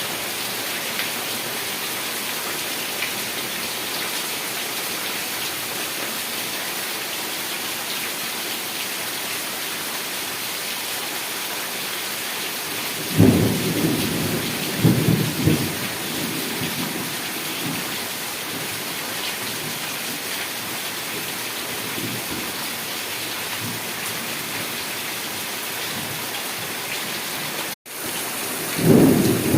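Heavy rain falling steadily, with sudden rolls of thunder about halfway through and again near the end. Shortly before the end the sound cuts out completely for a split second.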